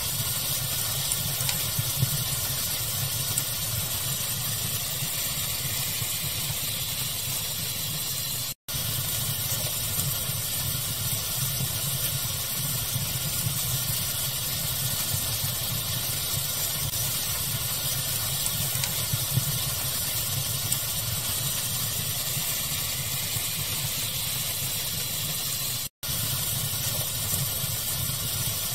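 Steady fire ambience mixed with pink noise: an even hiss and low rumble with small crackles scattered through it. The sound cuts out for an instant twice.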